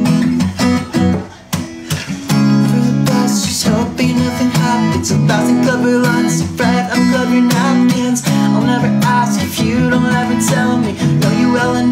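Guitar strummed in a rhythm of repeated chords, with a short break about a second and a half in.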